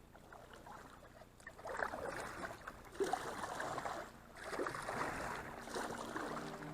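Kayak paddle dipping and splashing in river water, starting about two seconds in, with a short break a little after four seconds before the strokes resume.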